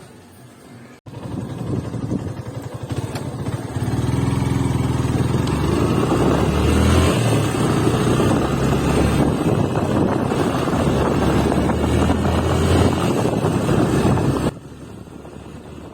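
Motorcycle engine running under way, with road and wind noise. It cuts in abruptly about a second in and drops away suddenly near the end.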